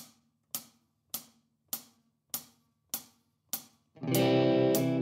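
Drummer's count-in: about seven evenly spaced cymbal-like taps, a little under two a second, then about four seconds in the rock band comes in with electric guitar chords over drums and bass.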